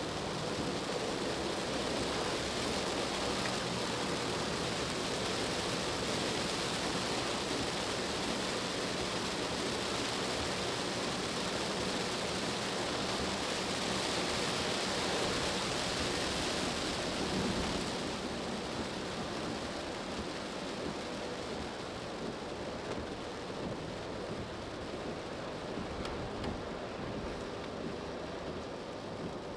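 Cabin noise of a car driving on a wet road in the rain: a steady hiss of tyres on the wet surface and rain, over low road rumble. The hiss eases a little about two-thirds of the way through.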